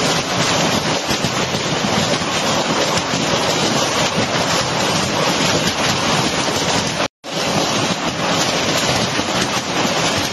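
Heavy storm rain pouring and splashing on the rooftops, a loud, steady rushing hiss. It cuts out for a moment about seven seconds in.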